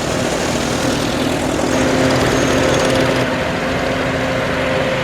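Farm tractor engines running steadily as tractors drive by, with a steady engine hum that grows a little louder about two seconds in.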